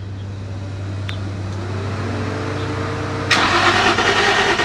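A car being started: a steady low hum and a slowly rising whine, then about three seconds in a sudden loud rush of running noise.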